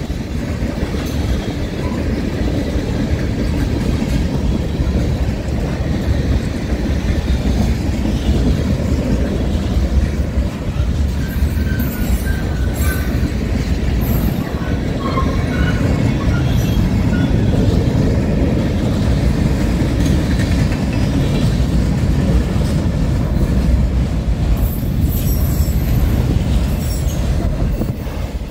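Freight cars of a passing CSX mixed freight train rolling by: a steady rumble of steel wheels on the rails, with a few brief wheel squeals around the middle.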